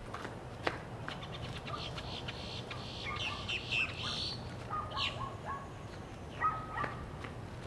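Birds chirping and calling, in short bursts that grow busier through the middle and come again near the end. A footstep or two tick at the start.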